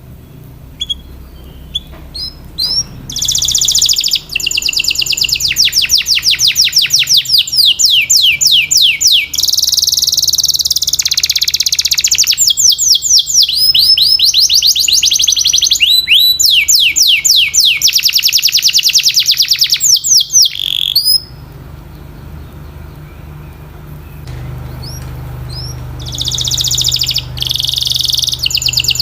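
Domestic canary singing long, loud phrases of fast trilled rolls, each made of rapidly repeated falling notes. The song breaks off for a few seconds and starts again near the end, over a steady low hum.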